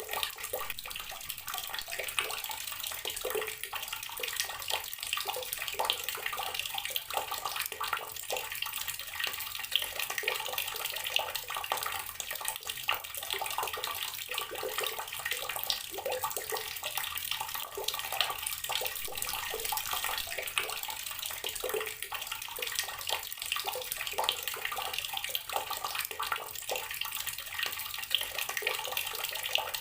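Water running steadily from an outdoor garden tap and splashing, with a constant spatter of small irregular splashes.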